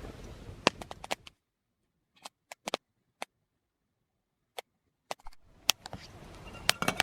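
Wood fire crackling in a stone hearth: scattered sharp pops and snaps, a few isolated ones through a near-silent stretch in the middle.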